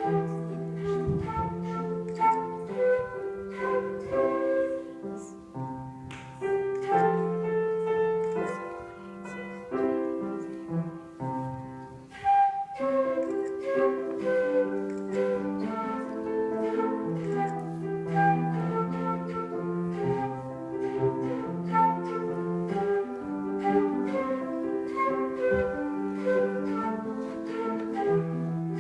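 Instrumental recital music: a piece played with piano, a steady stream of notes that pauses briefly twice.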